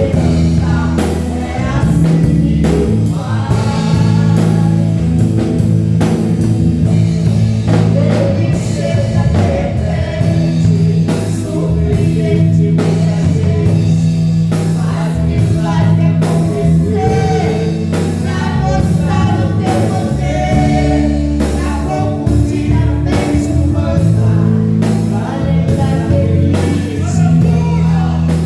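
Live gospel praise music: a band with bass and drums plays steadily under a lead singing voice.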